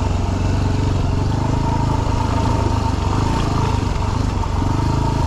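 Dirt bike engine running at a steady pace on a rocky off-road trail.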